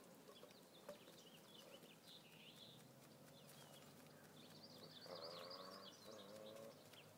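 Faint bird chirps, with two short pitched calls about five and six seconds in.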